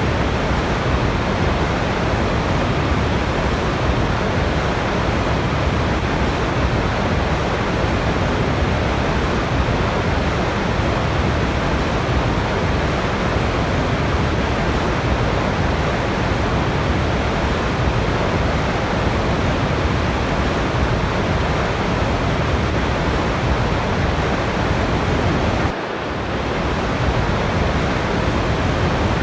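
Waterfall: a steady, even rush of falling water, with a brief dip in level near the end.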